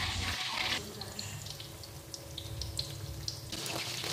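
Flour-coated chicken wings frying in oil in a wok: a steady sizzling hiss with scattered small pops. It drops quieter for a few seconds in the middle, then rises again near the end.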